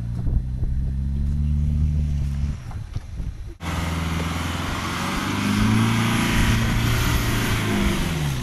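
A 4x4's engine running off-road, its revs rising and falling. About halfway through there is an abrupt cut, after which a loud rushing hiss sits over the engine as it revs up and settles again.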